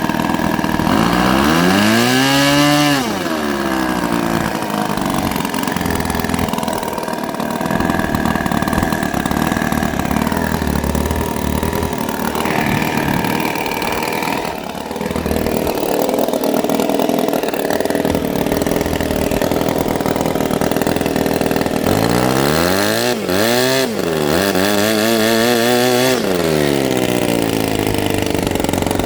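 Saito FA-90-TS four-stroke model engine running on a test stand, throttled up and back down briefly about two seconds in, then running steadily at low speed, and revved up and down a few times near the end. Its low-speed needle has just been tuned, so it idles and picks up cleanly.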